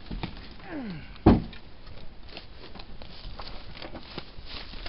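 Scattered small knocks and rustling from rummaging in an old abandoned car, with a short falling creak followed by one loud, sharp thump about a second in.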